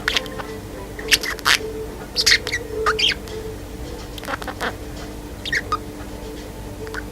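Female budgerigar chirping: short, sharp, high chirps and warbles in scattered clusters, a few at a time with pauses between.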